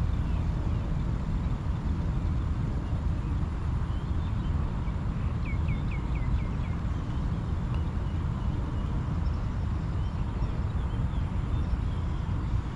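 A steady low rumble runs throughout. About five and a half seconds in, a bird gives a quick run of five short, falling chirps, and a few fainter bird chirps come here and there.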